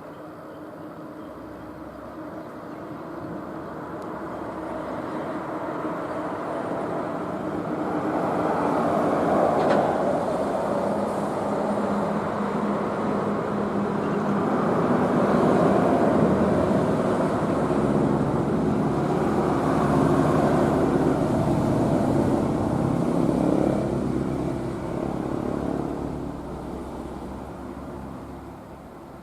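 Road vehicles passing on the highway, their engines and tyres growing louder over several seconds, staying loud through the middle, then fading away.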